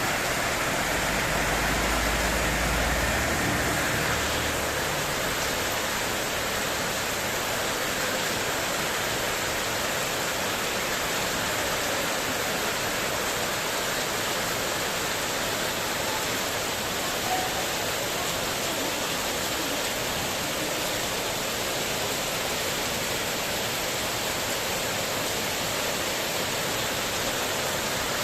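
Heavy rain pouring steadily onto a metal spandek terrace roof in a windstorm, an even hiss. A deep low rumble runs through the first four seconds, and there is one faint tick about seventeen seconds in.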